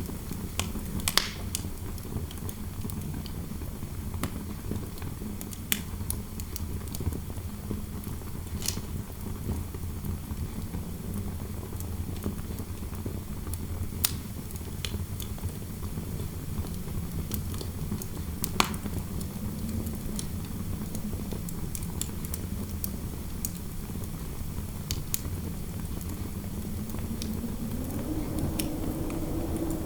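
Fireplace crackling, with sharp pops every second or few over a steady low rumble of wind indoors. Near the end a howl of wind rises in pitch.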